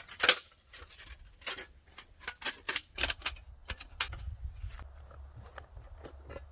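A run of irregular sharp clicks and small knocks, with a low rumble under them from about halfway through.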